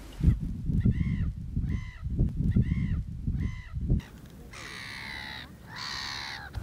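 Birds calling on the shore: four short calls that rise and fall in pitch, over wind buffeting the microphone, then two longer harsh calls after the wind stops.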